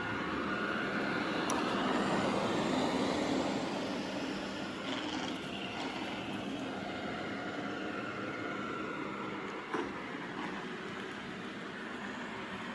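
Robot vacuum cleaner running on the floor: a steady motor and brush whir with a faint high whine, and a brief knock about ten seconds in.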